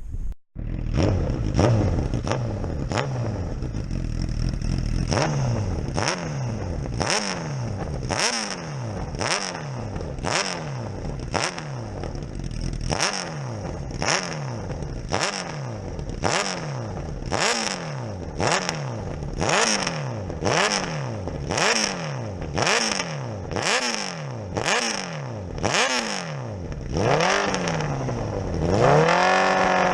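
Old single-cylinder pon-pon boat engine turning over slowly with a regular knock about once a second, its note dipping and climbing between knocks. Near the end the pitch rises steadily.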